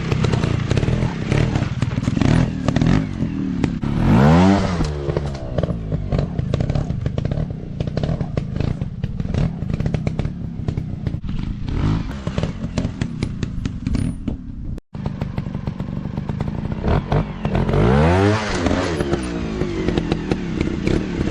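Dirt bike engines running on a trail, rising steeply in pitch and falling back about four seconds in and again near the end, with clattering in between.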